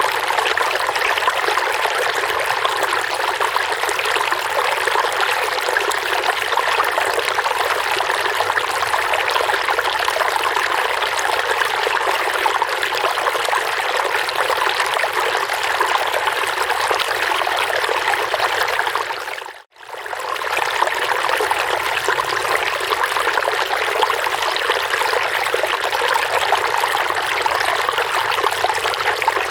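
Water running and trickling steadily, the babbling of flowing water. About twenty seconds in it briefly fades out to near silence and straight back in.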